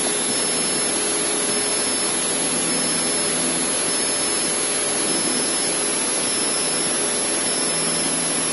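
Cessna 152's four-cylinder Lycoming O-235 engine and propeller running steadily at climb power, heard from inside the cockpit as an even drone with a low hum.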